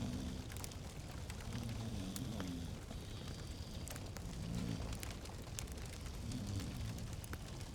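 Fireplace wood fire crackling, with scattered sharp pops over a steady low rumble.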